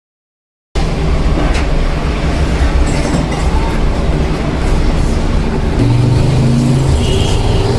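Metalworking machinery in a small kettle-making workshop starting abruptly and running loudly: a steady rumble with continual rattling and, about six seconds in, a brief steady hum.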